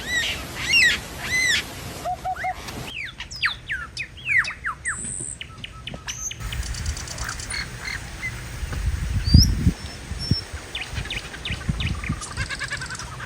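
Birds calling outdoors, repeated arched and gliding chirps. A few dull thumps come later, the loudest about nine seconds in.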